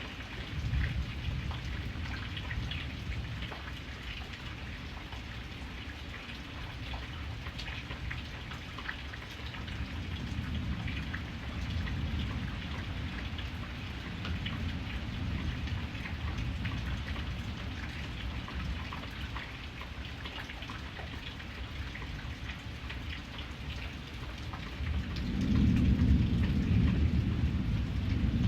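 Steady rain pattering, with rolling thunder rumbling underneath in waves and swelling to its loudest near the end.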